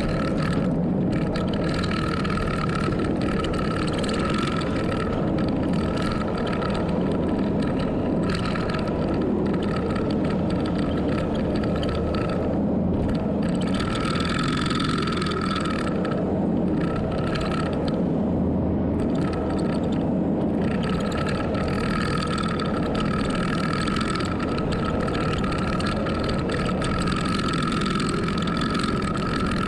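Heavy earthmoving machine's diesel engine running steadily, with a high whine that drops out for short spells.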